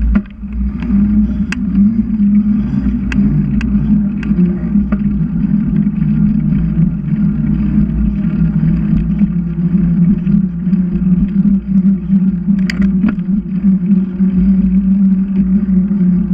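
Riding noise from a bicycle: a steady low hum with rumble underneath and scattered sharp clicks and rattles.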